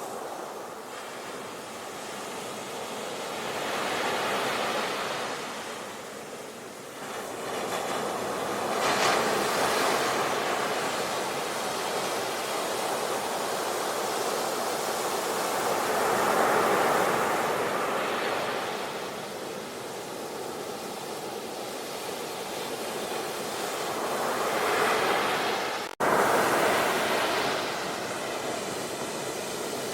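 Ocean waves breaking and washing up the shore, each swell of surf rising and falling over several seconds. Near the end the sound cuts out for an instant and comes back suddenly, like a splice in the recording.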